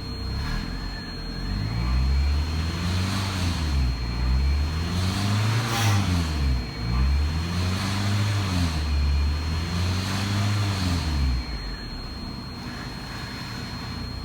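1991 Mercury Capri's four-cylinder engine revved four times, each rev climbing and falling back smoothly, then settling to idle near the end.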